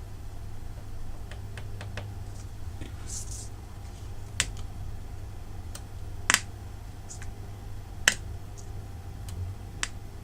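Small speaker on a freshly soldered noise-maker IC circuit giving a steady low hum, with scattered sharp clicks and pops, four of them loud; the circuit is not yet making its intended sound.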